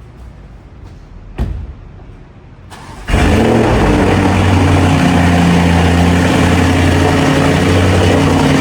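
A thump about a second and a half in, then a Lamborghini engine comes in abruptly about three seconds in and runs loud and steady at idle.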